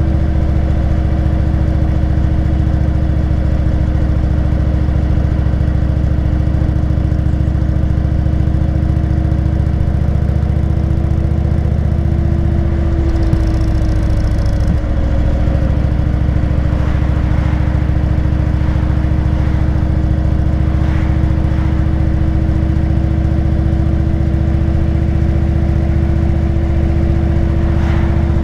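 Motorcycle engine running steadily at cruising speed while riding, with a brief change in the engine note about halfway through.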